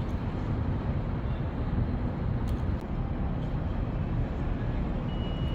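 Steady low rumble of city traffic noise, even and unbroken, with no distinct events standing out.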